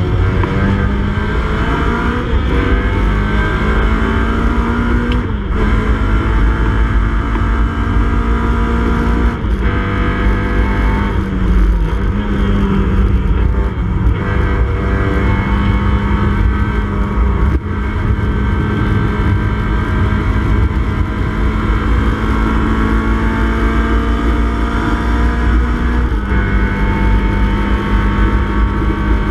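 Classic Mini Cooper S's BMC A-series four-cylinder engine running at racing revs, heard from inside the cabin. Its pitch climbs over the first five seconds, then dips at several gear changes or lifts, around five, nine, eleven and twenty-six seconds in, with wind and road noise underneath.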